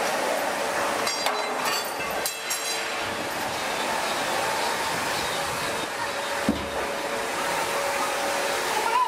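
Steady hum and hiss of a large hydraulic press at work, with a held mid-pitched tone. A few sharp metallic clanks and rattles come in the first three seconds, and a single knock about six and a half seconds in.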